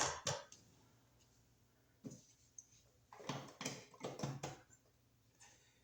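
Faint handling sounds of an electrical receptacle and its wires being pushed into a wall box to test the fit: a sharp click at the start, then a few short scrapes and knocks about two seconds in and again a little later, as the back of the device meets the back of the box.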